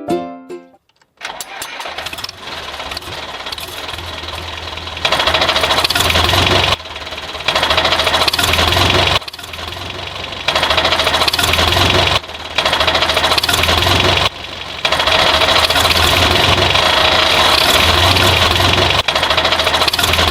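Small electric motor of a homemade model tractor whirring with a high whine. Several times it runs louder for a couple of seconds at a stretch, then drops back.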